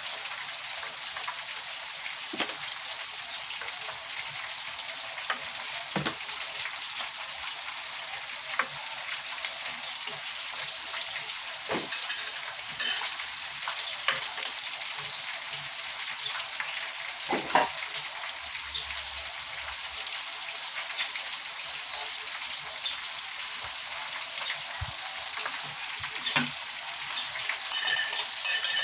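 Flour-coated chicken pieces deep-frying in canola oil, a steady sizzle throughout, with occasional sharp clicks from a utensil against the pan and a quick run of them near the end.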